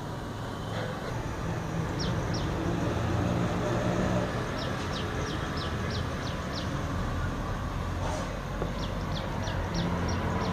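A bird calling in runs of short, quickly falling high notes, about three or four a second, over a steady low rumble.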